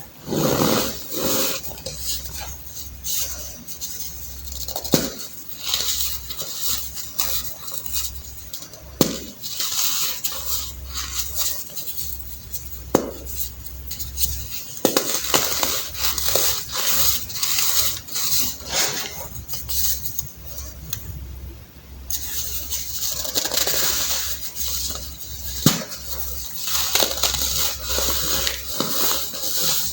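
Blocks of reformed baking soda being crushed by hand: continuous crunching and crumbling made of many small crackles, with a few sharper snaps standing out.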